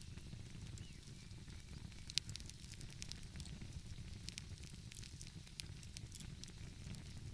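Wood fire crackling, with scattered sharp pops and snaps (one louder pop about two seconds in) over a steady low rumble.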